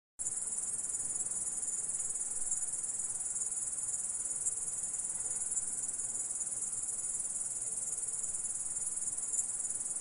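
Grasshopper stridulating: a steady, dense, high-pitched chirring that starts suddenly and goes on without a pause.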